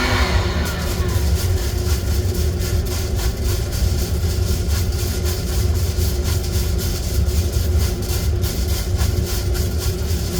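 Coffee roasting equipment running with a steady low hum while roasting coffee beans make rapid, irregular clicking and rattling.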